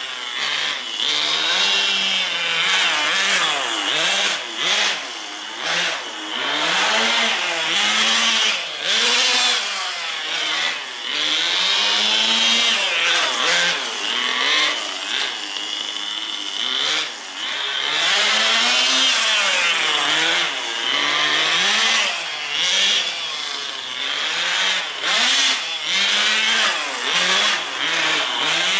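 Tamiya TGS 1/10 nitro RC car's small two-stroke glow engine running hard, its pitch rising and falling again and again as it revs up and backs off while the car is driven.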